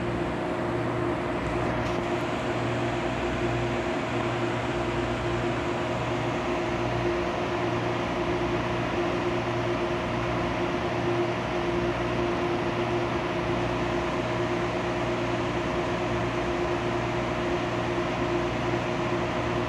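Cabin noise aboard an MTR Airport Express CAF train running at steady speed. There is a continuous rumble of wheels and running gear, with a steady, unchanging hum from the train's machinery.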